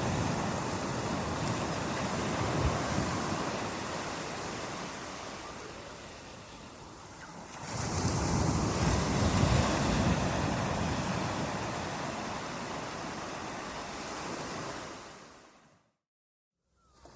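Surf breaking and washing in: a swell of rushing water at the start fades away, and a second, stronger one rises about eight seconds in and slowly fades. Near the end the sound cuts out to silence for about a second.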